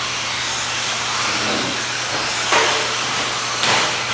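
Electric RC stadium trucks running on the track: a steady hiss of motors and tyres, with two quick loud passes by, about two and a half and three and a half seconds in.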